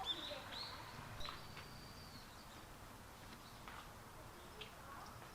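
Small birds chirping faintly: a few short high chirps, then one longer, held high whistle just after a second in, and scattered single chirps later.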